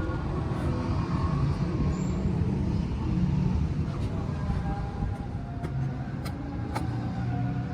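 Motor vehicle engine rumbling steadily at a low pitch, with a few light metallic clicks.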